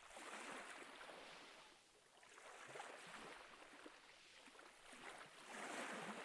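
Faint ocean waves washing in and drawing back, in three slow swells of surf noise.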